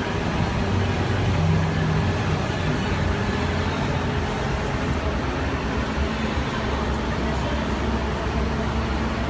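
Parking tram running, heard from on board: a low engine drone with road and rolling noise. The drone's pitch shifts slightly a couple of times.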